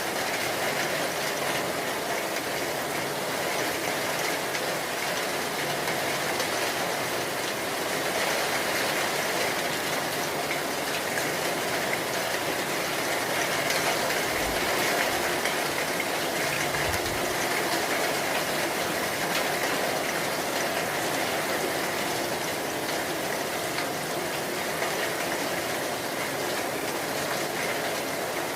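Steady heavy rain, an even hiss that does not let up. Two brief low thuds come about halfway through.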